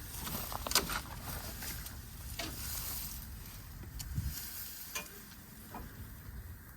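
Open fire burning down, crackling with irregular sharp pops.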